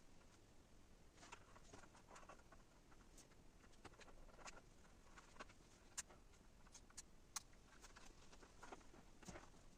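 Near silence, broken by faint scattered light clicks and taps at irregular intervals.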